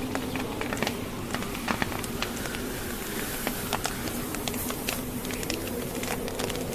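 Wood fire crackling in a fireplace: sharp, irregular pops and snaps, several a second, over a steady low rush of wind.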